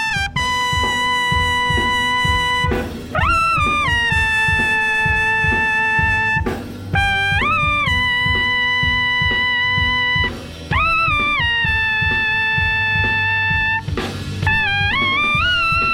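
A solo wind instrument, brass-like, playing long held notes that scoop upward into each new phrase, about every three to four seconds, over a backing track with a drum kit.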